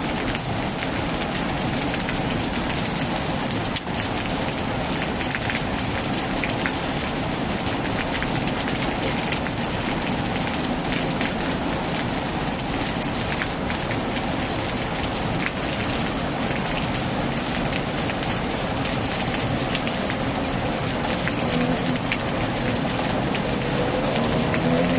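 Heavy rain pouring steadily on a tin roof, a dense hiss peppered with individual drop ticks. Near the end a low hum with shifting pitch comes in under the rain.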